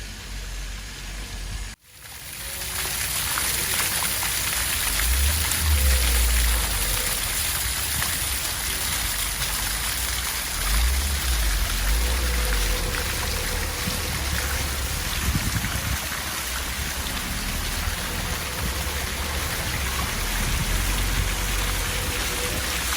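Water of a rock garden waterfall pouring and splashing steadily. The sound drops out briefly about two seconds in, then the water comes back in, with occasional low rumbles underneath.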